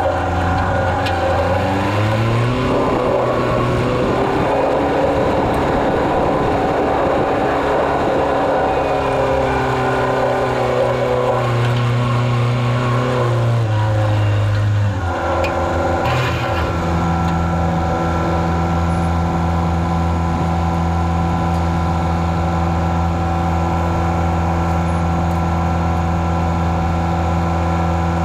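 Farm vehicle's engine running loudly with a rattling noise over it. The revs rise about two seconds in, then drop to a lower, steady speed about fifteen seconds in.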